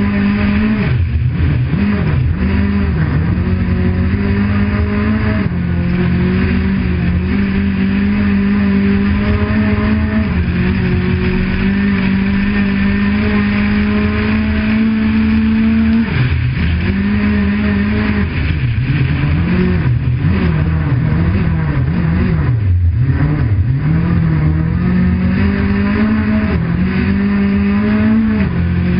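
Car engine running at high revs while the car is driven fast on a snowy road, over constant tyre and road rumble. The engine note holds steady for long stretches, then past the middle it drops and swings up and down for several seconds as the throttle is lifted and reapplied.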